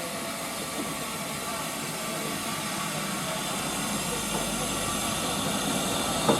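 Narrow-gauge steam train: a steady hiss of steam and running noise, growing gradually louder.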